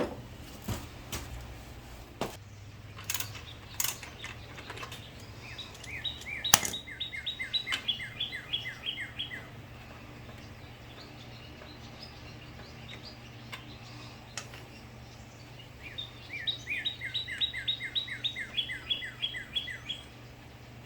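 A songbird sings twice, each time a quick run of clear down-slurred notes lasting about three seconds, starting about 6 s and 16 s in. A few sharp clicks, like small tools being handled, come in the first seven seconds, and a steady low hum runs underneath.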